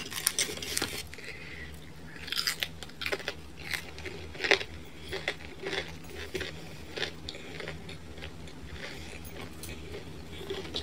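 A person biting and chewing crunchy thin-crust pizza close to the microphone: irregular crunches and clicks, busiest in the first half and thinning out toward the end.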